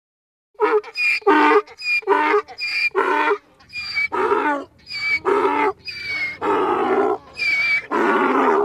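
Donkey braying: a long run of hee-haws, alternating higher and lower notes, starting about half a second in and cutting off abruptly at the end.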